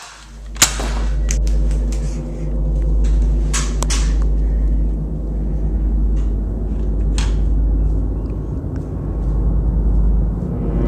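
A steady deep rumble with a low droning tone over it, broken by a few sharp clicks, the first about half a second in and another about seven seconds in.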